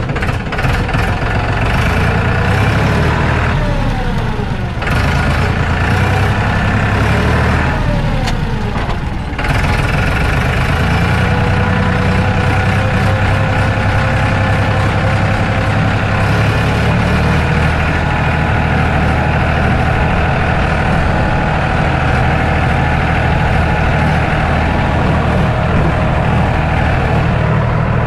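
Homemade mini tractor's small engine running steadily, its pitch sweeping down twice within the first ten seconds.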